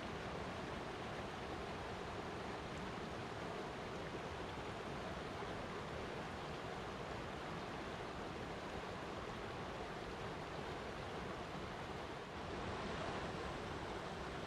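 Flowing water rushing steadily, an even hiss with no distinct splashes, dipping briefly in level near the end.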